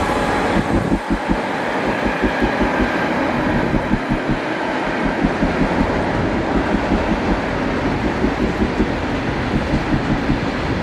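Train running along the track: a steady rail rumble with a fast, uneven rattle of wheels over the rails.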